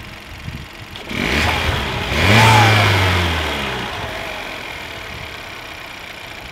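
Turbocharged Ecotec four-cylinder engine of a 2018 Chevrolet Cruze, heard with the hood open, revved once about a second in and then dropping back to idle. An airy hiss rises with the revs and fades as the engine settles.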